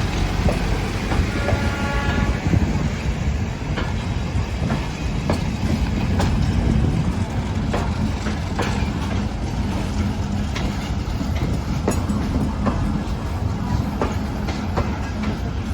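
Local passenger train running: a steady low rumble with irregular sharp clicks of the wheels passing over rail joints.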